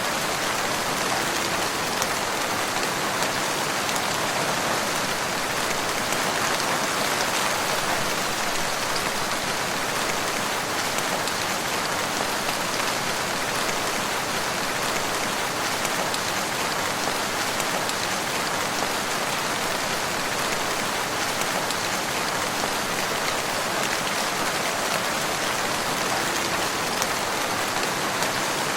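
Steady, even rain falling, a dense hiss of countless drops with fine pattering, unchanging throughout.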